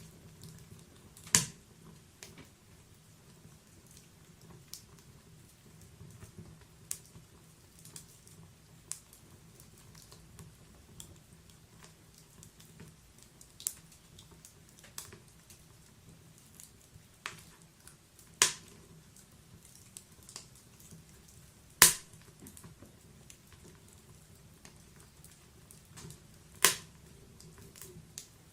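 Wood logs burning in an open fireplace, crackling with irregular sharp pops over a faint low, steady rumble. Four of the pops are much louder than the rest: one about a second in, two close together past the middle, and one near the end.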